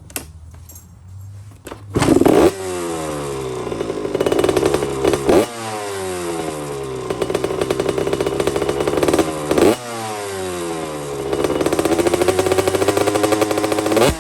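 Motorcycle engine running hard, its pitch sweeping up and down with abrupt breaks every few seconds, as when riding through the gears. It starts about two seconds in.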